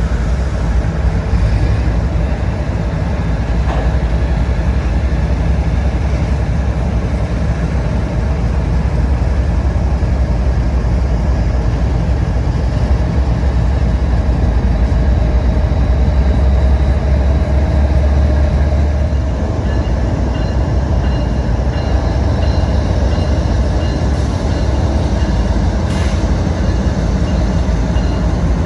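Freight train passing, with its diesel locomotives running under load and a steady, loud rumble.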